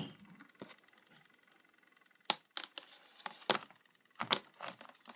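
Sharp clicks and knocks of hard plastic box-fan parts being handled and fitted together, about eight of them in quick, uneven succession, starting about two seconds in.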